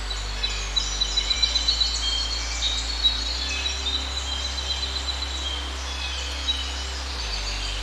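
Several forest birds calling at once: sharp high chirps and a long, fast, high trill through the middle, over a steady low background.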